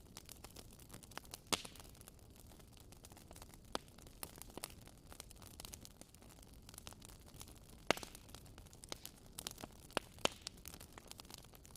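Wood fire crackling in a fireplace: irregular sharp pops and snaps over a faint steady hiss, with a few louder pops, one about a second and a half in and another near eight seconds.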